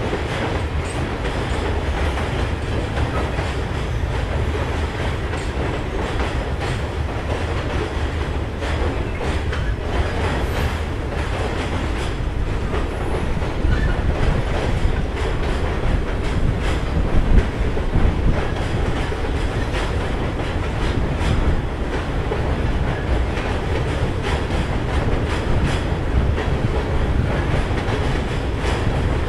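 Freight cars of a long, slow freight train rolling over a steel girder bridge: a steady rumble of wheels on rail, with repeated clicking from the rail joints.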